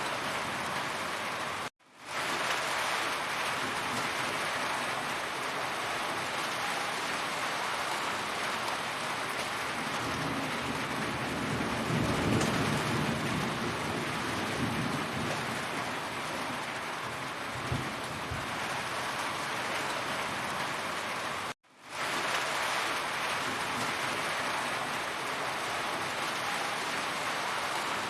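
Heavy rain falling steadily, a dense hiss of drops. A low rumble swells and fades in the middle. Twice the sound cuts out for a moment and fades back in, as at a loop seam.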